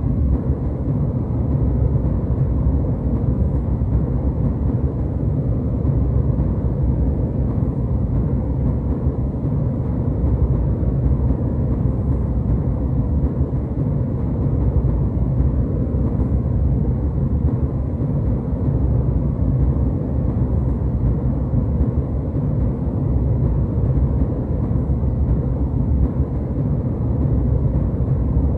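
Jet airliner cabin noise in cruise: a deep, even drone of engines and airflow, steady throughout, with a faint steady hum riding on top.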